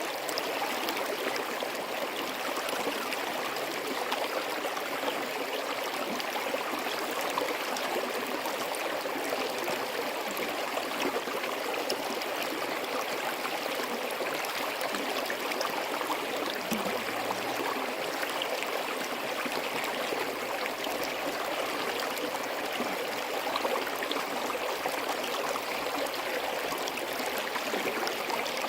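Forest stream running steadily, a continuous even rush of flowing water with no breaks.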